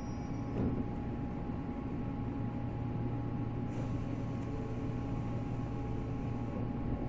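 Steady hum inside a JR 485 series electric train car, with constant tones from its onboard electrical equipment and no rising or falling with speed. There is a short hiss about four seconds in.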